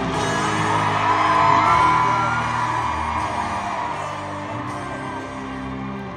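Live arena concert music with sustained instrumental tones, heard through a crowd of fans screaming and cheering. The screaming is loudest about two seconds in, and the whole sound then slowly tapers off.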